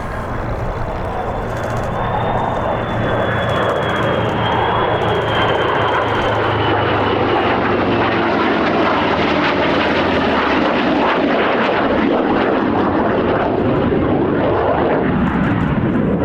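Flypast of an F-35A Lightning II jet with piston-engined P-51 Mustang and P-47 Thunderbolt warbirds: a steady aircraft engine roar that grows louder over the first several seconds, with a thin high whine through the first half and a low engine drone that fades out.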